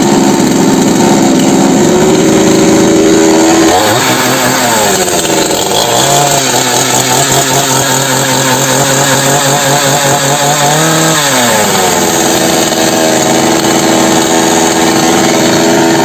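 Two-stroke chainsaw engine running at high speed, dropping to a low idle a few seconds in, then revved back up near the end. It is being test-run after a carburettor repair.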